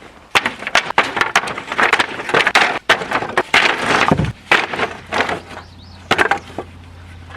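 Pallet-wood boards clattering and knocking against each other as the load is unloaded, with many sharp knocks in quick succession. A low steady hum comes in about four seconds in.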